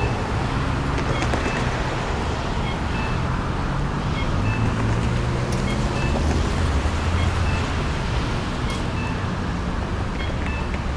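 City street traffic: a steady wash of passing cars with low engine rumble and tyre noise. A heavier rumble swells through the middle.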